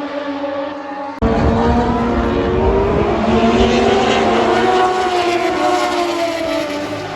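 High-revving racing motorcycle engine. After an abrupt cut about a second in, it is much louder, with a deep rumble and a pitch that rises a little and then slowly falls.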